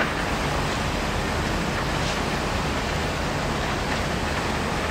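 Steady rolling rumble of a freight train's last cars moving away onto a steel truss bridge, with a couple of faint clicks from the wheels.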